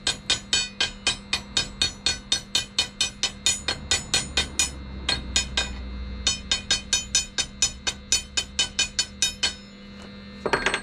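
Arc welding on steel bars: rapid, evenly spaced sharp crackles, about four or five a second, over a steady electrical hum. The crackles break off briefly midway and stop shortly before the end, followed by one short burst.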